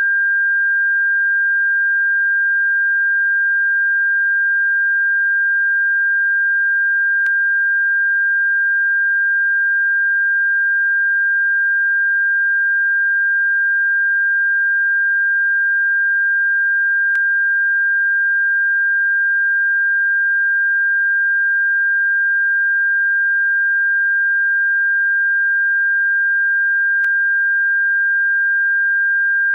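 A continuous electronic sine tone: one steady high pitch that never changes, played as a bird-repellent sound. Faint clicks come about every ten seconds.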